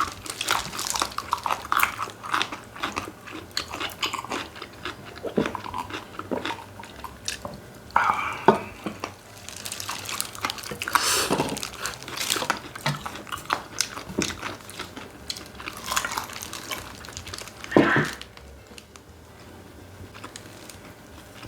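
Close-miked mukbang eating: crunching and chewing of crispy fried chicken and bone-in spicy chicken feet, with many short crackles and a few louder bites. It goes quieter over the last few seconds.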